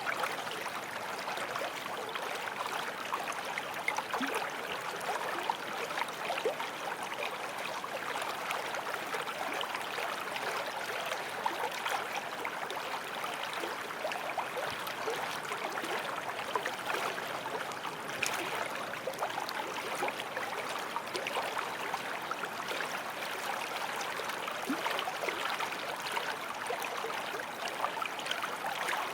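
Forest stream flowing steadily over stones, with small splashes and gurgles.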